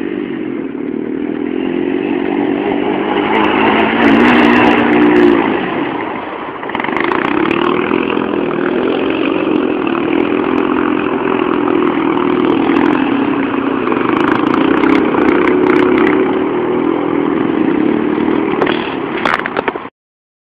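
Motorcycle engine running at a steady speed, easing off briefly about six seconds in and picking up again, with a few light clicks; the sound cuts off abruptly near the end.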